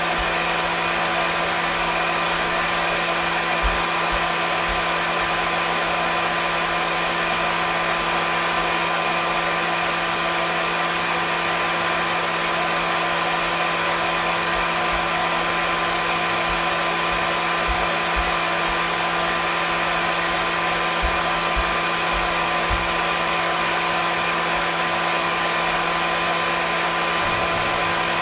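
Hair dryer running steadily: a constant rushing airflow with a steady motor hum underneath, unchanging throughout.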